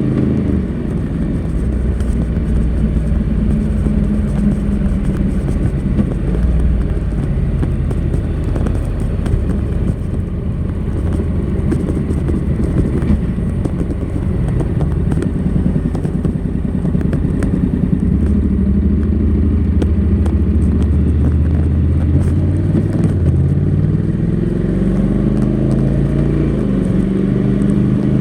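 Honda NC700X's parallel-twin engine running through its stock exhaust while ridden. Its pitch drops at the start as it slows, holds fairly steady through the middle, and rises again near the end as it accelerates.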